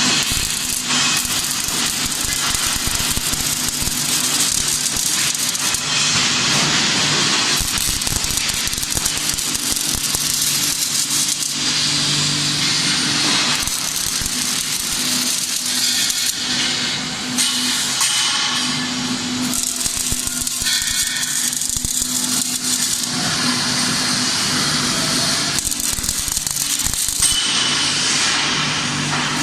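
CO2 (MIG) welding arc on mild steel sheet, crackling steadily, with a low hum underneath.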